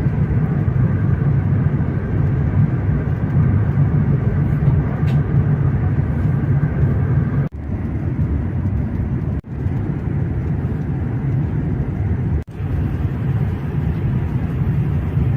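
Steady low rumble of a high-speed train running at speed, heard inside the passenger cabin. The sound drops out abruptly three times, for a moment each, in the second half.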